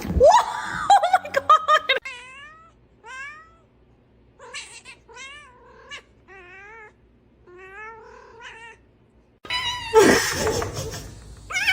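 A cat meowing over and over: a run of short, rising meows, with louder, harsher yowling at the start and again near the end.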